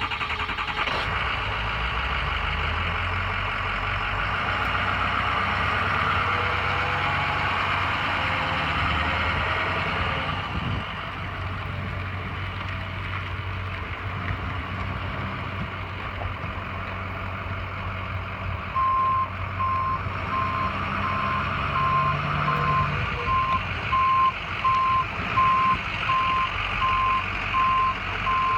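Ford F-550 bucket truck engine running just after starting, settling to a lower, steadier idle about ten seconds in. About two-thirds of the way through, its backup alarm starts beeping about once a second as the truck is put in reverse.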